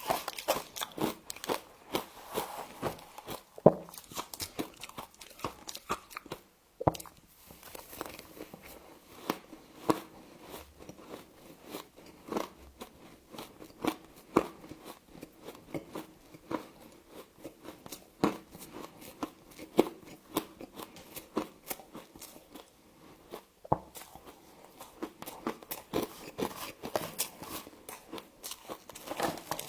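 Frost being bitten and chewed: a steady run of crisp crunches with crackling between them, with a couple of brief pauses.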